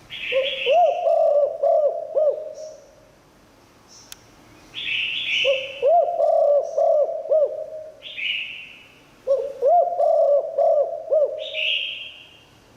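Spotted dove cooing: three phrases of low, rolling coos with quiet gaps between them, each phrase opening with a short, higher, hoarse note.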